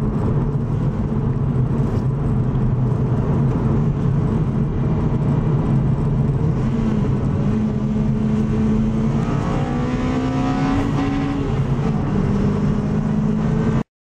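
Toyota Celica GTS's 2ZZ four-cylinder engine pulling hard through the gears, heard from inside the cabin with the intake noise of a cold air intake. The engine pitch climbs toward about 7,000 rpm, falls at an upshift near the end, and the sound cuts off suddenly at the very end.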